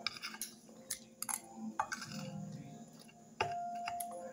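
Quiet chewing of tough roast chicken, with a few short clicks of a fork against the plate. A steady tone starts suddenly about three and a half seconds in.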